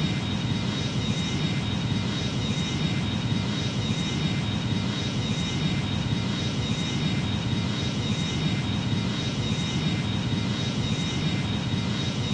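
Boeing 737 jet engines running at idle while taxiing: a steady low rumble with a thin, constant high whine.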